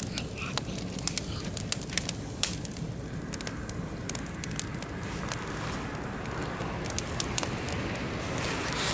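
Oak and beech wood fire burning in a barbecue grill, crackling with many sharp pops over a low rumble of flame, with a hiss building in the second half.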